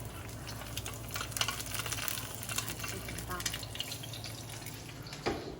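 Food frying in a hot pan, a steady sizzle with many small pops.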